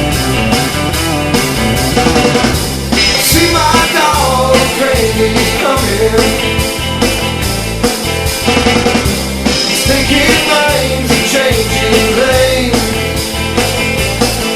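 Rock band playing an instrumental passage: steady drum beat and driving bass under a lead melody with bending, sliding notes.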